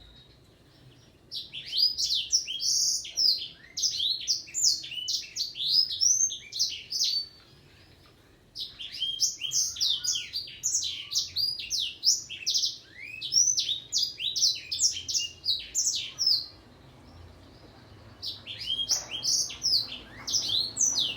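Black-throated canary (blackthroat) singing: three long bouts of rapid, varied high twittering notes, separated by pauses of a couple of seconds.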